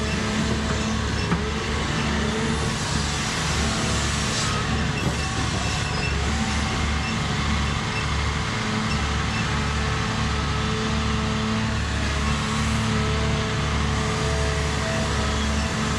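Diesel engine of a piece of earthmoving equipment running steadily under work, a continuous low hum with a steady pitch.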